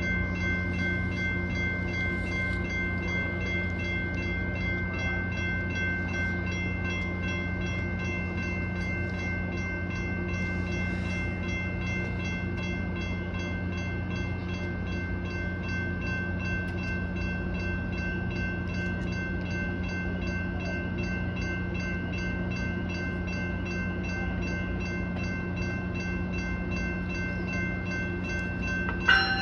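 Metrolink commuter train's diesel locomotive running with a steady low rumble, under a bell ringing rapidly and continuously.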